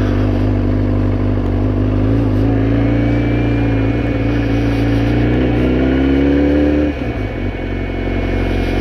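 Motorcycle engine running at low speed under light throttle, its pitch climbing slowly and then dropping sharply about seven seconds in as the throttle closes.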